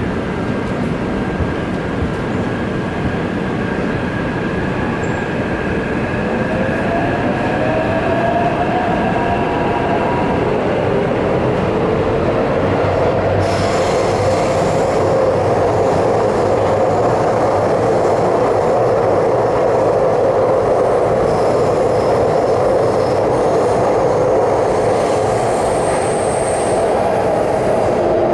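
Taipei Metro subway train running between stations: a steady rumble of wheels on rail, with a motor whine that rises in pitch through the first several seconds as the train picks up speed, then holds.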